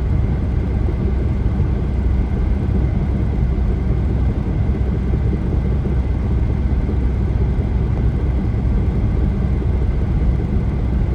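Steady rumble of a car driving on the highway, with tyre and engine noise and no separate events.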